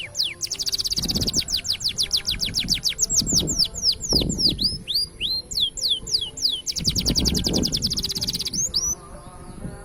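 Green canary singing: very fast trills of rapidly repeated high notes, about a second in and again near the end, alternating with slower runs of sharply down-slurred whistled notes.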